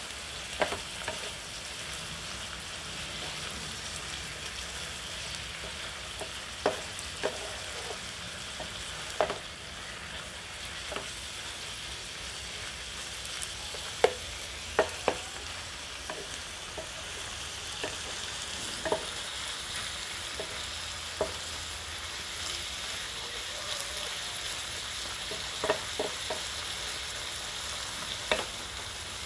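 Minced pork and green vegetables sizzling in an enamel frying pan with a steady hiss while being stir-fried with a wooden spatula. The spatula knocks sharply against the pan a dozen or so times at irregular intervals.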